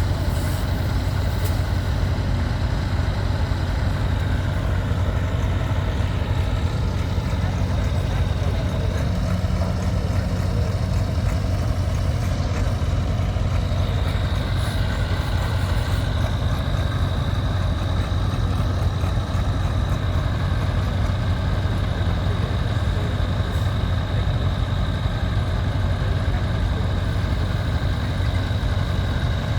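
Heavy engine idling steadily, a constant low hum with no revving. A thin high whine joins about halfway through.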